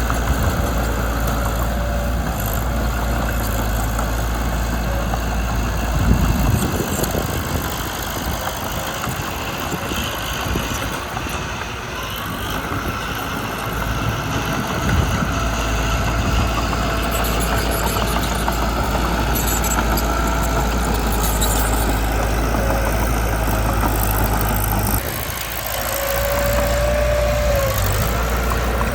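Mitsubishi BD2 bulldozer's diesel engine running under changing load, its low note dropping and returning as it works, with a knock about six seconds in and a short whine near the end.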